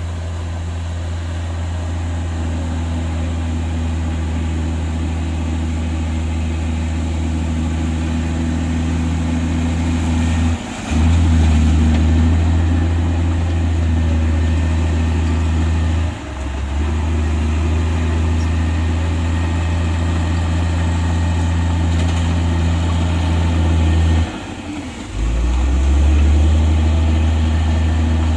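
Heavy diesel engine of a Komatsu bulldozer running steadily under load while it pushes soil. Its drone breaks briefly three times, about a third of the way in, halfway through and near the end, the last time dipping lower in pitch before it picks back up.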